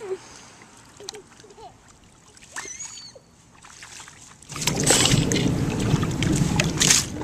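Water splashing in a puddle, starting suddenly about four and a half seconds in and continuing loudly with many sharp splashes.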